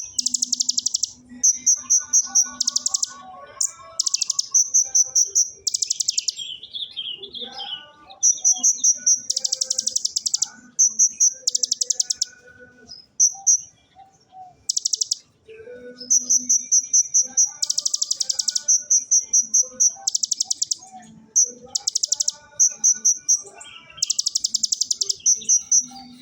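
Olive-backed sunbird (kolibri ninja) singing. Its song is made of loud, high, rapid rattling trills copied from the bar-winged prinia (ciblek), each lasting about a second, alternating with quick series of high notes and repeating many times.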